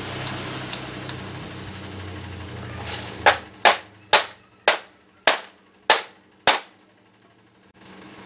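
Seven sharp hammer strikes, a little over one a second, each with a brief ring, beginning about three seconds in after a steady low hum.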